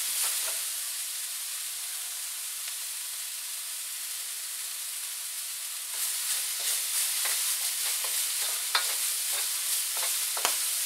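Broccoli frying in a hot wok, a steady sizzling hiss. From about six seconds in the sizzle grows a little louder, with a few short light knocks and clicks.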